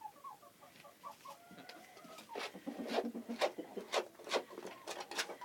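Domestic chickens clucking softly in short repeated notes, joined from about two seconds in by a run of short sharp clicks and scratches.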